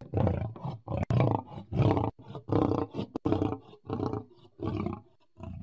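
Male lion roaring: a run of short, deep roars, about one every two-thirds of a second, growing weaker near the end.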